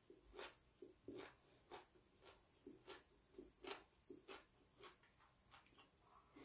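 Faint chewing of a mouthful of soybean sprouts: soft, irregular mouth clicks and crunches, about two a second.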